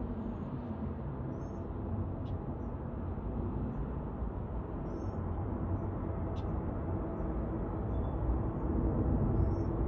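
Low, distant jet rumble of an Airbus A350-900 on final approach, slowly growing louder. Small birds chirp faintly over it, and there are two brief clicks.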